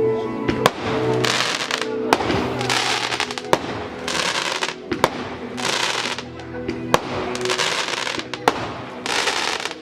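Fireworks going off: sharp bangs about every one and a half seconds, each followed by a spell of crackling. Music plays underneath.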